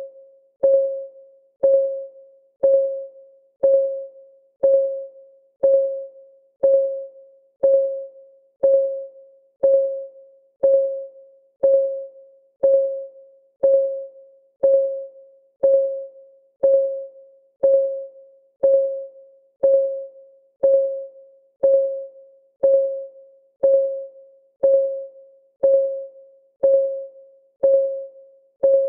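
Countdown timer's clock-ticking sound: a short, pitched tick once every second, each dying away quickly.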